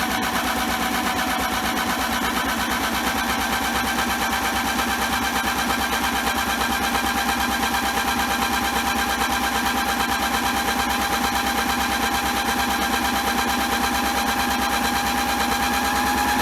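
Small electric motor of a modified toy washing machine spinning a sudsy load of rags: a steady whine over a fast rattle, its pitch creeping slowly upward. The motor is struggling slightly against the drag of the suds.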